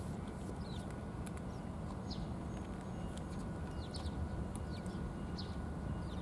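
Short, quickly falling high chirps of a small bird, repeated every second or so, over a steady low outdoor rumble, with scattered faint high clicks.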